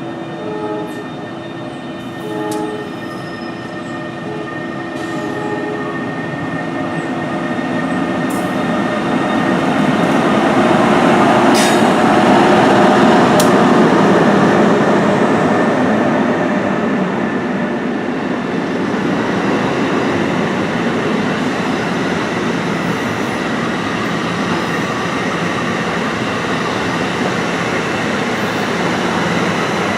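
Electric passenger train passing at speed: two short horn notes near the start, then the rush of the train that builds to its loudest about halfway through and carries on steadily as the cars go by.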